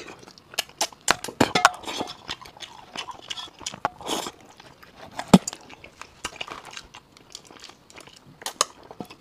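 Close-miked mouth sounds of a person eating bony fish meat: wet chewing, lip smacks and sucking at irregular moments, with one sharp smack about five seconds in standing out as the loudest.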